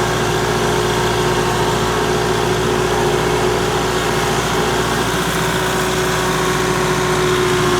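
Kubota M5660 SU tractor's four-cylinder turbo diesel engine running steadily as the tractor is driven around, with a steady whine over the engine note.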